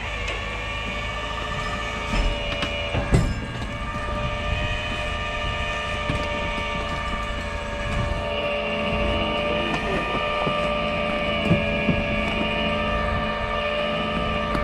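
Tow truck running steadily with a whine of several steady tones, with a couple of short knocks about two and three seconds in.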